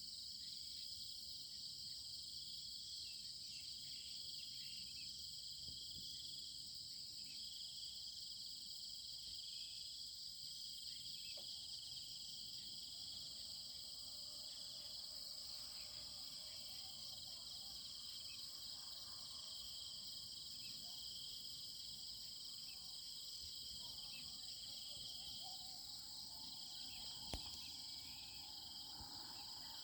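A steady chorus of insects chirring high and shrill, several overlapping trills layered together, with faint scattered sounds underneath and a single small click near the end.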